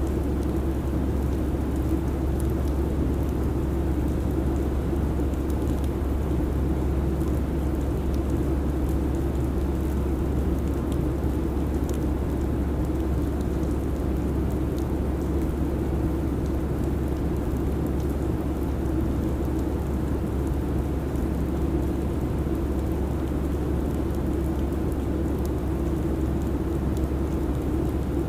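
Steady airliner cabin noise: a low, even drone of engines and airflow with a deep rumble underneath, unchanging throughout.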